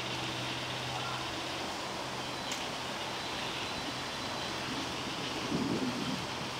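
Steady outdoor background hiss with a faint low hum, a single click about two and a half seconds in, and a brief murmur of faint voices near the end.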